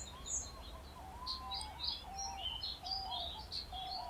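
Several birds calling together: quick high chirps and trills over a repeated lower, whistled note.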